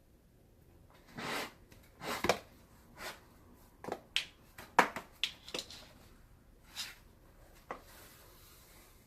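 Hands working on a leather baseball glove during a repair: irregular short clicks and brief rustles of leather and lacing being handled, the sharpest snaps about two and five seconds in.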